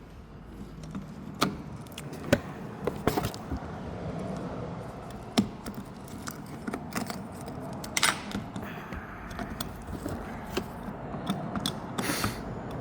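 Scattered metallic clicks, knocks and rattles with a few short scraping rustles, as a cooling-system pressure tester is handled and fitted to the coolant filler before pressurising the system to find a coolant leak.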